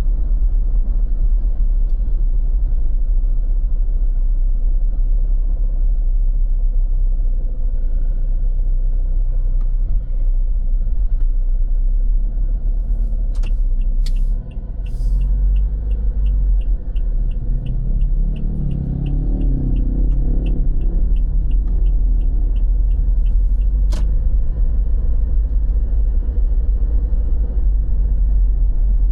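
Steady rumble of road traffic, with a vehicle passing by about two-thirds of the way through. A regular high ticking runs for about nine seconds in the middle, roughly two to three ticks a second.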